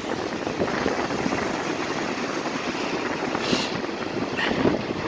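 Steady wind buffeting the microphone over surf, with a short hiss about three and a half seconds in.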